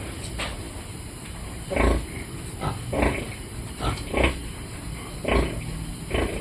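Piglets making short, repeated calls while they feed, about one every half second to a second.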